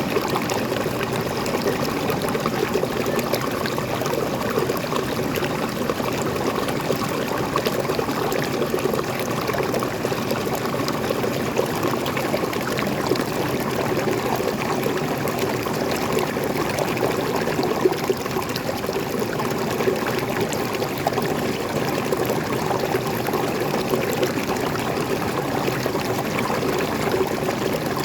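Water of a small forest waterfall or stream pouring and splashing in a steady, unbroken rush.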